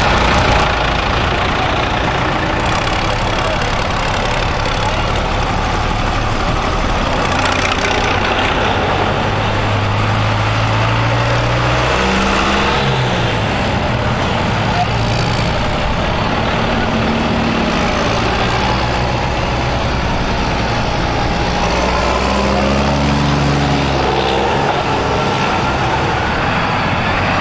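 Tractor engines running as tractors drive past one after another, with engine notes coming and going around the middle and again near the end.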